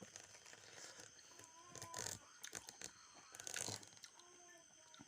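A person biting and chewing mango close to the microphone, in a few short bursts of mouth noise about two, two and a half and three and a half seconds in.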